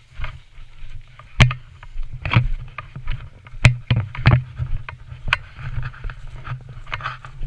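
Footsteps through woodland undergrowth: an irregular run of crunches and cracks about once a second, each with a low thump, over light rustling.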